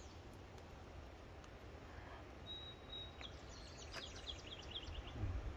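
Small birds chirping: a brief steady high whistle, then a quick run of short high chirps from about three seconds in. Under it is a low rumble that grows near the end.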